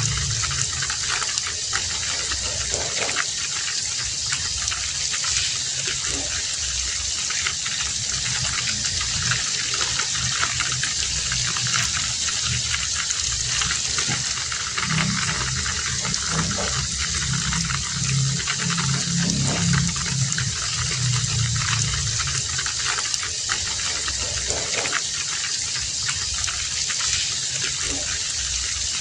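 Heavy rain falling steadily, a dense even hiss, with a low rumble that swells and fades at times.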